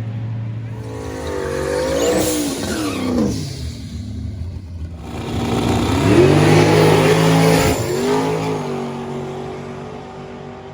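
High-performance drag-racing car engines revving hard, climbing in pitch and falling away twice, the second and loudest run about six seconds in, then fading.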